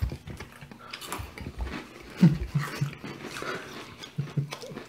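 People chewing crunchy Indian snack mix (namkeen with peanuts and cornflakes), a close, crackly crunching, with a couple of short murmurs partway through.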